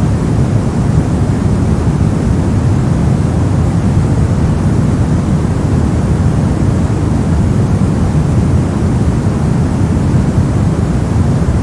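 Steady generated white-noise track: an even, unbroken rushing hiss, deepest in the low end, with no change in level.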